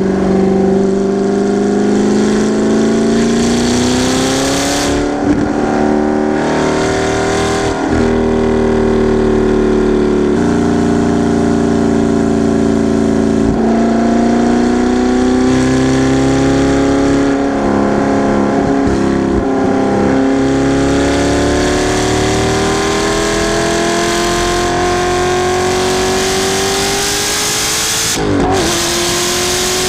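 Audi R8 V8 with a titanium aftermarket exhaust under hard acceleration at track speed: the engine note climbs slowly in long pulls, with several brief breaks where the pitch drops as the driver shifts or lifts.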